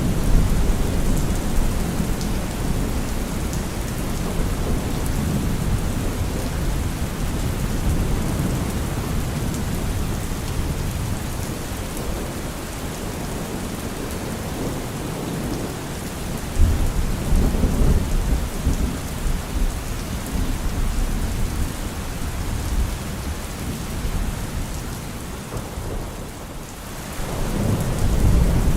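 Heavy rain pattering steadily on a car roof, with thunder rumbling underneath. A sudden louder thunderclap comes a little past the middle, and another rumble swells near the end.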